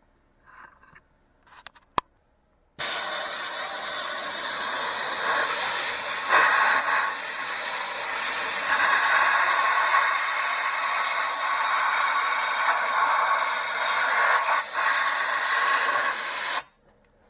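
Compressed-air blow gun blowing a steady loud hiss for about fourteen seconds. It starts suddenly a few seconds in and cuts off near the end. A single sharp click comes just before it.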